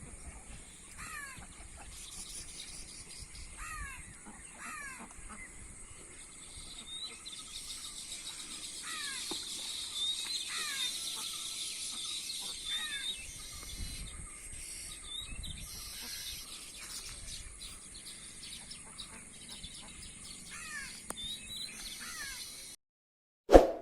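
Outdoor bird calls: short falling calls repeated in twos and threes every few seconds, over a steady high hiss with faint higher chirping. The sound ends in a sharp loud click, then cuts out.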